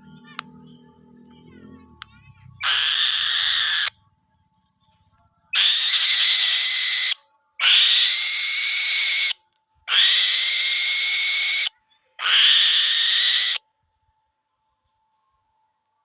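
A bird giving five long, harsh, hissing screeches, each more than a second long, with short pauses between them.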